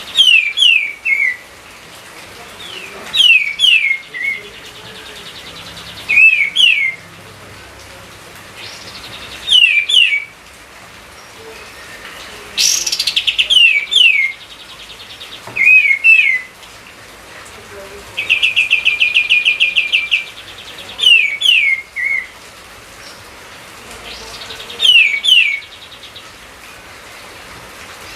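A songbird singing short phrases of two or three quick falling whistled notes, repeated every few seconds, with a fast rattling trill about two-thirds of the way through. A faint steady hiss lies underneath.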